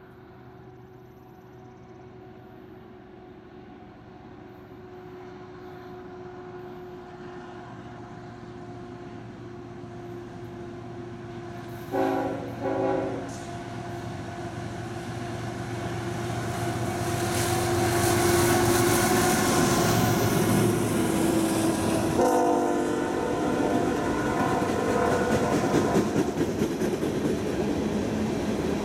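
Freight train led by a GE ET44AC and an EMD SD70ACe diesel locomotive approaching and passing, the engines growing steadily louder. The locomotive horn gives two short blasts about twelve seconds in and a longer blast about ten seconds later. Near the end the freight cars roll past with a rattling clatter.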